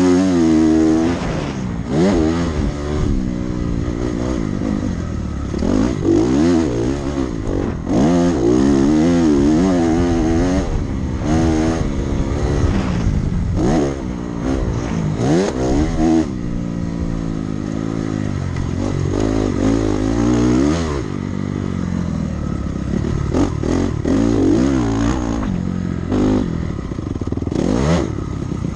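Dirt bike engine revving hard and falling off again and again, the pitch climbing and dropping sharply as the throttle is opened and chopped.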